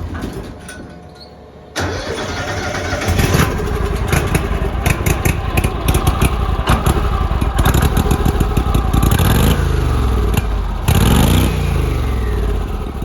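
Argo ATV's carbureted engine cold-started: it catches with a sudden jump about two seconds in, then runs unevenly, its revs rising and falling a few times near the end as it warms up.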